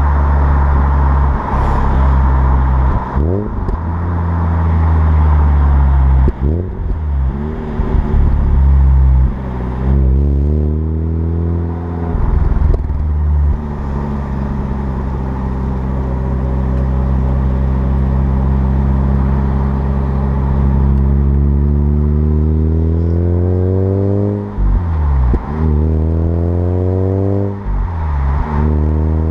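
Mazda RX-8's street-ported two-rotor Renesis rotary engine through a Japspeed cat-back exhaust, running and being revved. The revs rise and fall several times in the first half, then climb slowly and hold for several seconds, with sharp drops and recoveries near the end.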